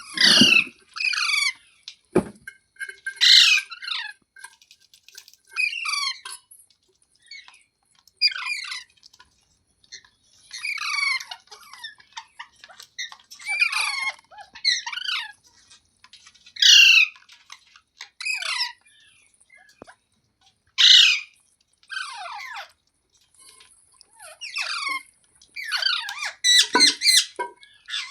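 Green ringneck parrot calling over and over: short, sliding-pitch calls, singly or in quick runs, every second or two.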